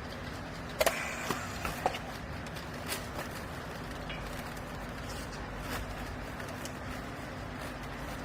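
Steady hum of a hydraulic baler's motor and pump running, with a few sharp knocks and clicks about a second in and again shortly after.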